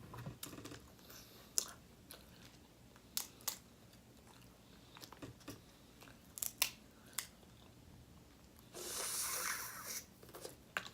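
Close-miked chewing and mouth sounds of a person eating, with scattered sharp clicks. Near the end comes a louder burst of noise lasting about a second.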